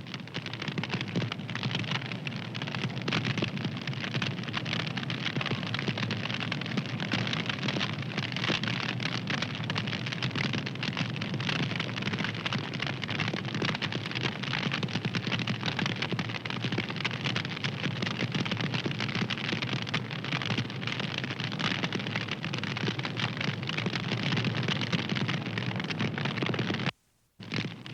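Wood fire crackling: a dense, steady run of small snaps and pops over a soft hiss. About 27 seconds in, the sound cuts out to silence for under half a second, then resumes.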